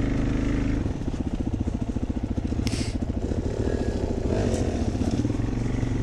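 Dirt bike engine running, steady at first and then pulsing quickly and evenly from about a second in as the bike rides along the trail. A short hiss comes about two and a half seconds in.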